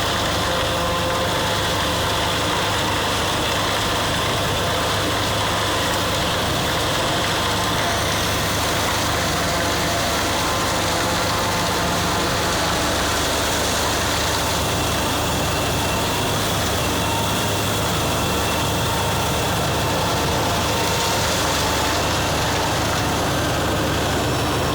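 Corn harvester's engine and machinery running steadily.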